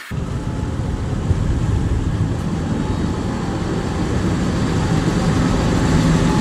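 A vehicle running with a steady, loud, heavy rumble that starts suddenly and holds even throughout.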